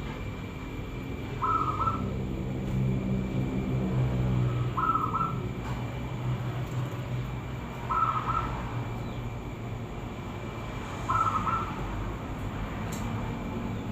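Perkutut (zebra dove) calling: four short, identical cooing phrases, about one every three seconds, over a low steady hum.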